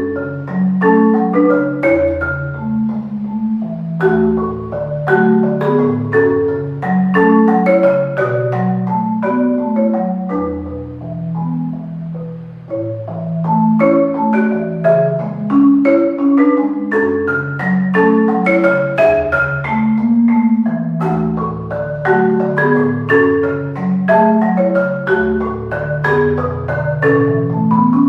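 Solo marimba playing a contemporary concert piece: quick runs of mallet strokes over sustained low notes, easing off briefly about twelve seconds in before building again.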